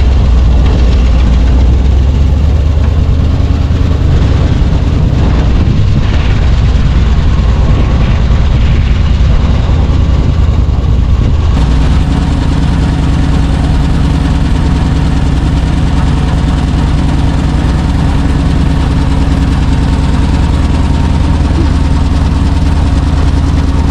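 Chevrolet C60 wrecker's engine running steadily at idle; about halfway through its tone changes and settles into a more even hum.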